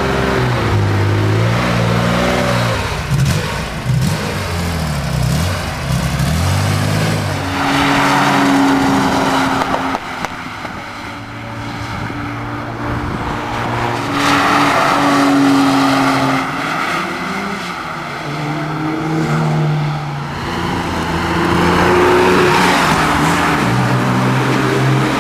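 1972 Porsche 911 Carrera RS's air-cooled 2.7-litre flat-six running, its revs rising and dropping back again and again. Three longer, louder rev-ups come about a third of the way in, around the middle and near the end.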